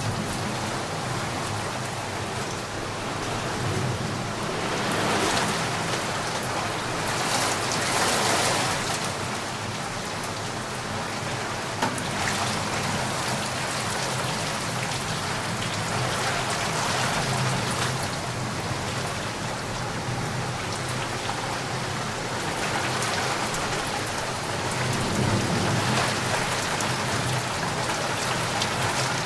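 Steady rain falling, swelling louder now and then.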